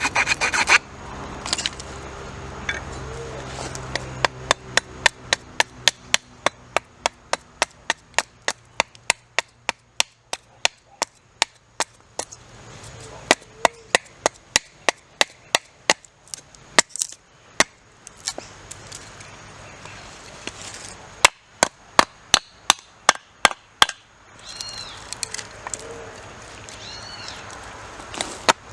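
Wood being chopped with a run of quick, sharp blows, about two to three a second, stopping and restarting a few times.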